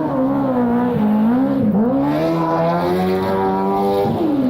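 Speedway sidecar engine running hard: its pitch wavers, climbs steadily for about two seconds, then drops sharply near the end as the throttle comes off.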